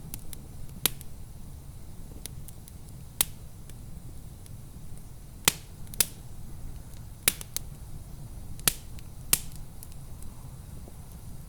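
Wood fire in a fireplace crackling, with irregular sharp pops every second or so over a low steady rumble.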